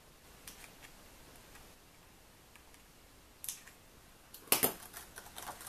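Paper and a peel-off sticker strip being handled and positioned on a card: scattered light clicks and rustles, with the loudest crackle about four and a half seconds in.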